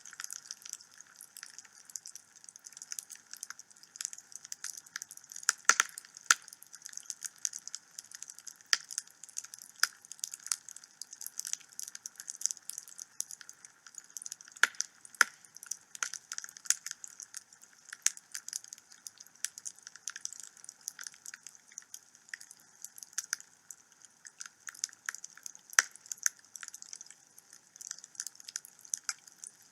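Wood fire burning in a home fireplace, crackling steadily with irregular sharp pops and snaps.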